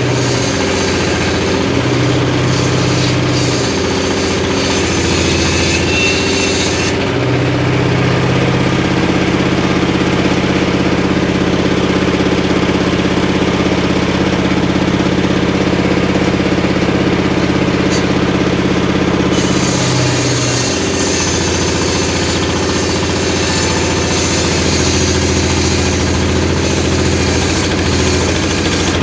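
Homemade engine-driven circular saw running steadily throughout. The blade is cutting through timber for the first several seconds and again from about twenty seconds in, adding a harsh hiss. In between, the engine note runs steady while the blade spins free.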